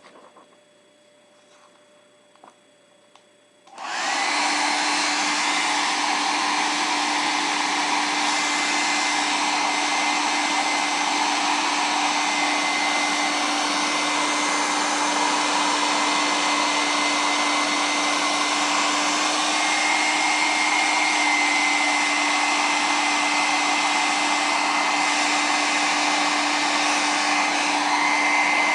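Handheld hair dryer switched on about four seconds in and then running steadily on the glued spine of a coloring book, a constant blowing rush with a steady whine, heating the binding glue until it softens.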